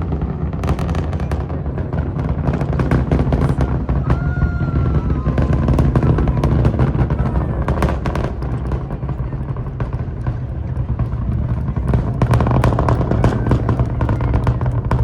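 Artemis II Space Launch System rocket heard during its ascent: a deep rumble with dense, fast crackling.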